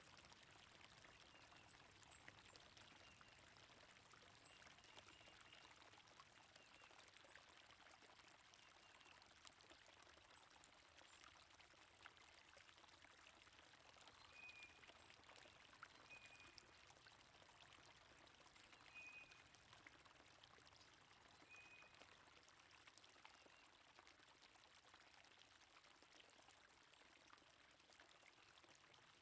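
Faint stream water trickling and flowing steadily, with a few short, high bird chirps scattered through it.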